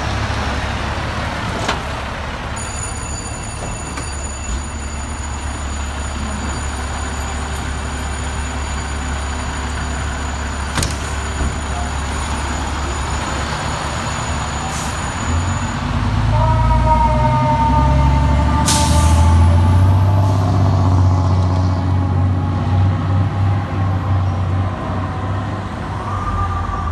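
Fire apparatus diesel engine idling with a steady deep rumble, then revving louder about sixteen seconds in as the rig moves off, with a whining tone over it. There is a short hiss of air brakes releasing a few seconds after the revving starts.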